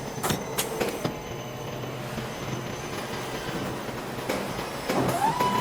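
CNC wood lathe running with a steady mechanical hum and a few sharp knocks in the first second. About five seconds in, a motor whine rises quickly and then holds steady as the machine gets louder.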